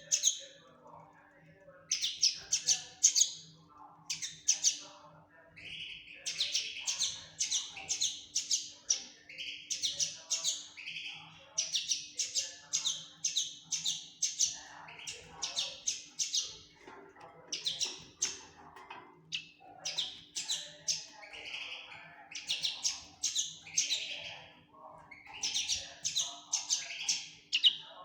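Young common linnet singing: bouts of rapid, high twittering notes, one after another, broken by short pauses. A faint steady hum runs underneath.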